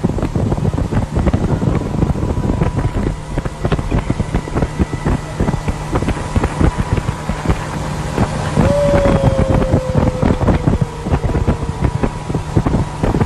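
Wind buffeting the microphone aboard a moving motorboat, over a steady low engine hum. About nine seconds in, a single high tone begins and slides slightly down for a few seconds.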